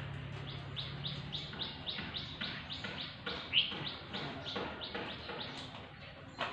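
A bird singing a fast run of short, falling chirps, about four a second, fading after about five seconds. A sharp knock comes near the end.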